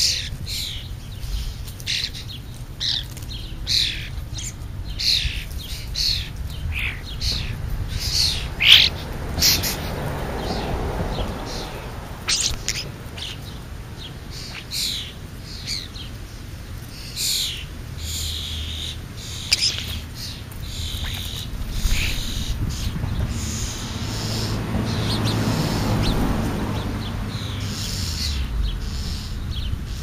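Birds chirping: many short, high calls scattered throughout, over a low rumble.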